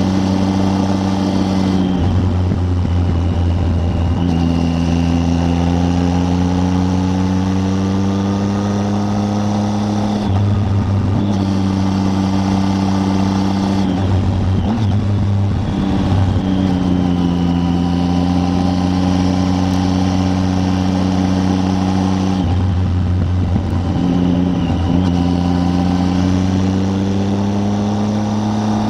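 Triumph Tiger 800's three-cylinder engine pulling the bike along, its note climbing slowly and then dropping back several times at gear changes, with wind rush over it.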